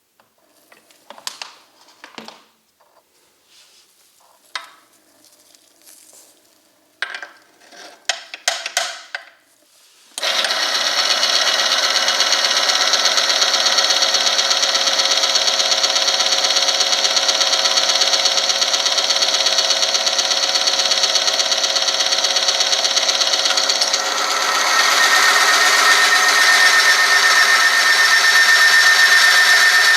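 For about ten seconds there are light clicks and handling noises. Then the oil-film friction tester's motor starts abruptly and runs steadily, its spinning part rubbing against a metal test sample in engine oil heated to 100°C. About 24 s in the running gets louder and a high steady whine joins it.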